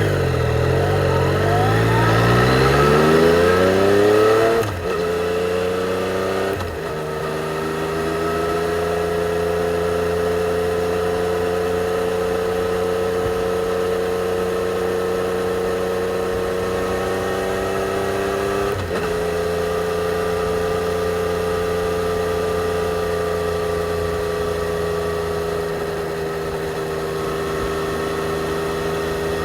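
2020 Yamaha XSR 900's inline-three engine with its stock exhaust. It revs up hard through the first few seconds, breaks twice for gear changes about five and seven seconds in, then runs at a steady cruising speed. There is one more brief gear change about nineteen seconds in.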